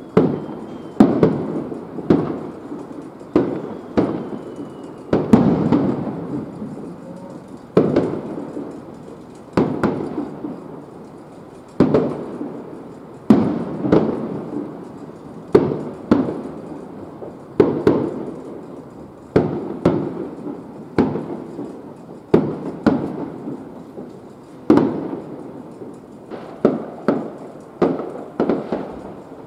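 Aerial firework shells bursting in a steady series, a sharp bang every second or so, each trailing off in a rolling echo.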